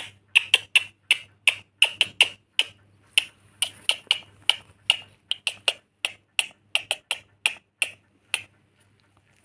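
Finger snaps keeping a steady beat, nearly three a second, as a cue for a pet lory to dance. They stop shortly before the end.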